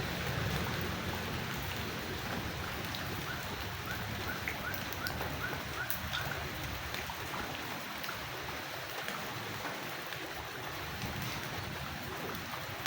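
Steady rain falling at night, an even hiss of rain on surfaces. Heavier low-pitched noise in the first seconds eases off, and a run of short faint chirps, about two a second, sounds a few seconds in.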